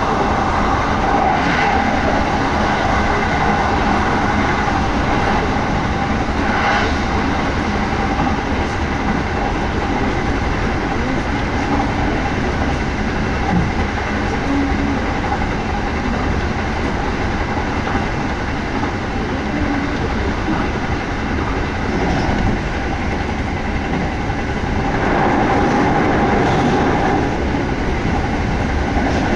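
Kintetsu 1200 series electric express train running along the line, heard from inside the carriage: a steady rumble of wheels on rail with a thin steady whine, swelling a little louder for a couple of seconds near the end.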